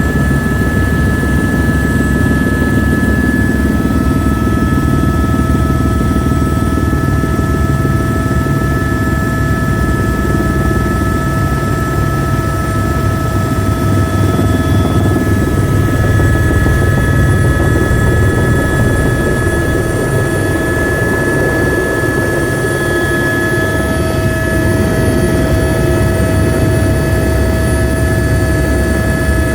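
AS350 B2 helicopter running steadily, heard from inside the cabin: the heavy beat of the main rotor and turbine under a constant high whine, with no change in power.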